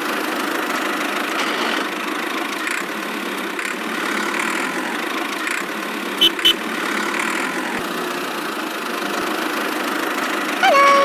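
A small engine running steadily. Two short, sharp sounds come in quick succession about six seconds in.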